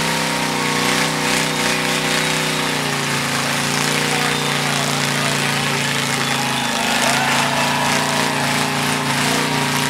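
Motorcycle engine running at a steady, held speed, its pitch dropping slightly about three seconds in, with a brief dip near seven seconds.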